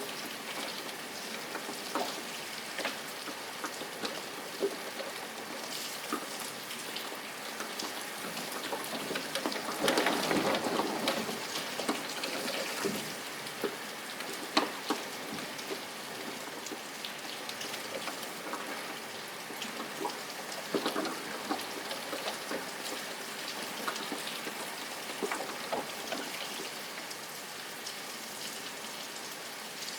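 Steady rain, with many separate drops ticking on a hard surface and a heavier patch of rainfall about ten seconds in.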